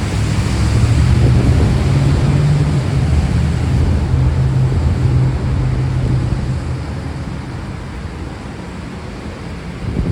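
Steady heavy rain hiss with a long, low rolling rumble of thunder that builds in the first second, rolls on for several seconds and fades away after about six or seven seconds.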